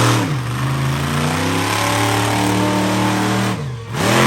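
Monster truck engine at high throttle, revs held high for about three seconds. Near the end the revs drop sharply and then jump back up.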